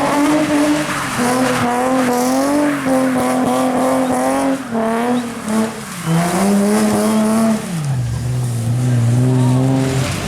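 A car engine held at high revs while spinning donuts, its pitch wavering up and down as the throttle is worked, with the tyres spinning on wet pavement. About eight seconds in the revs drop to a lower, steadier note.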